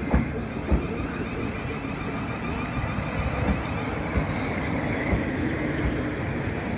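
A train running through the station with a steady rumble and a few irregular low thumps.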